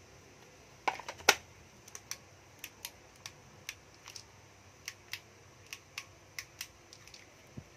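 Light plastic clicks and knocks from a Makita cordless work light being handled: a few louder knocks about a second in, then single clicks about twice a second.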